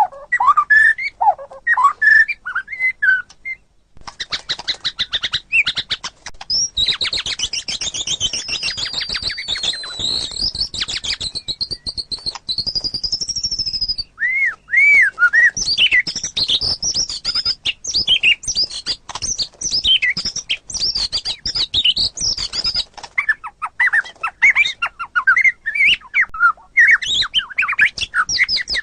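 White-rumped shama (murai batu) singing continuously in varied phrases: clear whistled notes, a long run of fast chattering notes in the middle, then looping whistles and more mixed phrases.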